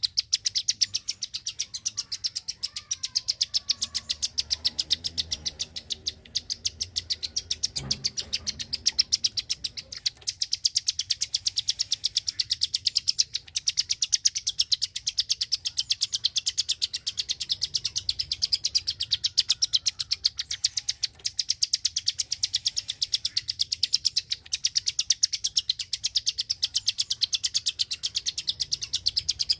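A small songbird of the kind Indonesian bird keepers call the klik-klik bird, calling a steady, rapid run of sharp, high clicking notes, several a second, broken only by a few brief gaps.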